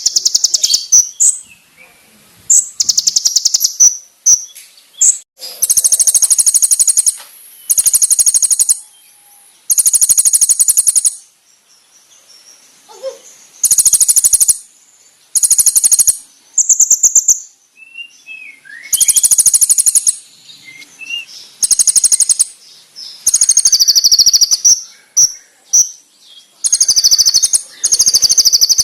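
Konin (kolibri ninja) sunbird singing a loud, high song: bursts of very rapid, sharp trilled notes about a second long, repeated every couple of seconds, with short chirps and slurred whistles between them.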